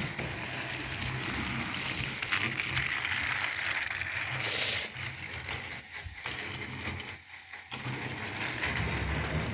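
Battery-powered Tomy toy train running on plastic track: the steady whir and rattle of its small motor and gears, dropping away briefly twice in the second half.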